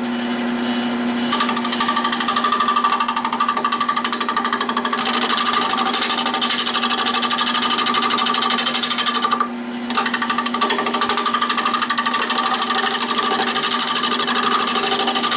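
Nova 16/24 wood lathe spinning an oak bowl blank while a bowl gouge cuts it: a fast, even rattling chatter over the steady hum of the lathe, with a brief break just before ten seconds in where the tool comes off the wood. The gouge is dull.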